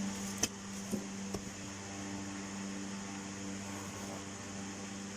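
Steady low mechanical hum with three light clicks in the first second and a half, like small parts or tools being handled.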